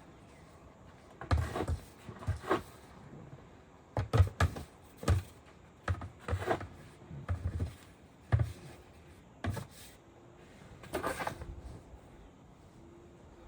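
Irregular scrapes and knocks, about a dozen short bursts, several with a dull low thud, in bunches separated by brief pauses.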